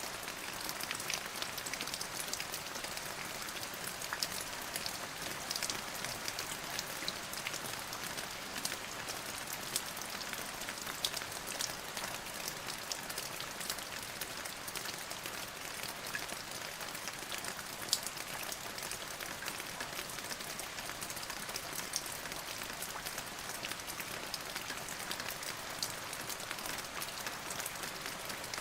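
Steady rain falling and pattering on a surface, an even hiss dotted with many close individual drop ticks.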